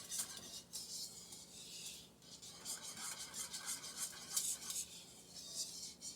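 A kitchen utensil scraping and stirring in a pan, with quick repeated rasping strokes.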